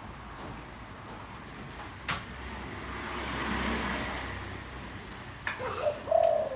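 A motor vehicle passes, swelling and fading in the middle, then near the end a short, deep cooing note from a spotted dove, the loudest sound here.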